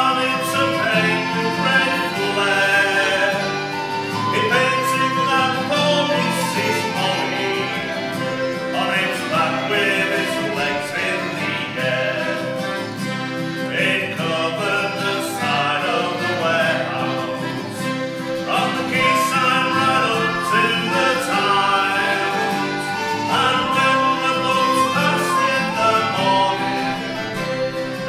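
A folk group singing a sea shanty with instrumental accompaniment.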